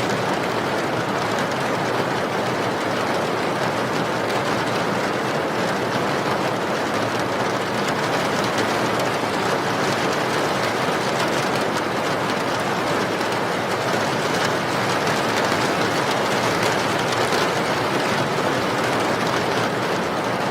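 Steady rain falling: a dense, even hiss that neither rises nor falls.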